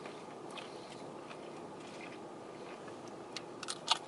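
Someone eating crunchy food: scattered faint clicks, then a run of sharp crunches near the end, over a steady low background hum.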